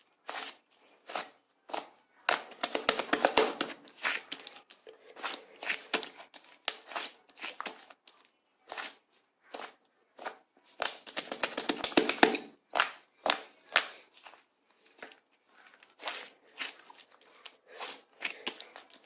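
Light-green clay slime being squished and pulled by hand, giving irregular crackling and popping with sticky tearing sounds, in denser stretches about two seconds in and again near the middle.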